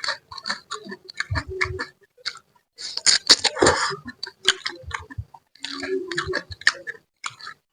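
Close-miked eating sounds: wet chewing and lip smacks as a spicy mangut catfish head is eaten, with a longer, louder slurp about three seconds in.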